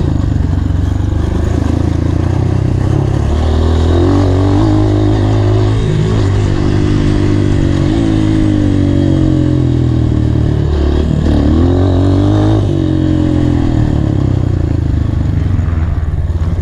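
Honda CRF230 motocross bike's single-cylinder four-stroke engine being ridden hard, revving up and down repeatedly as the throttle is opened and closed.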